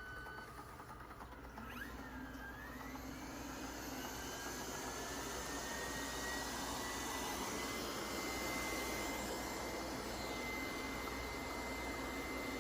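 Lefant M201 robot vacuum starting up after being switched back on. A last beep of its start-up chime is followed by its suction fan and motors whirring, with a whine that rises in pitch over the first several seconds and then holds steady as the whir slowly grows louder.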